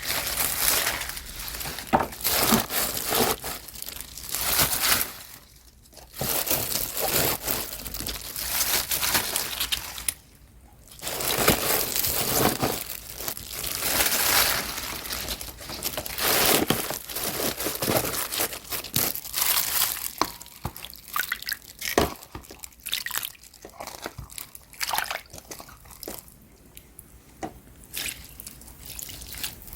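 Wet leafy vegetables, likely young radish greens, being handled and rinsed in water: sloshing, dripping and crinkling of leaves, with two short lulls and sparser drips and clicks toward the end.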